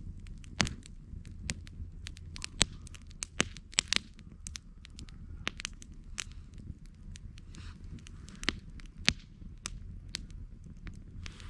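Wood campfire crackling, with irregular sharp pops, a few much louder than the rest, over a low steady rumble.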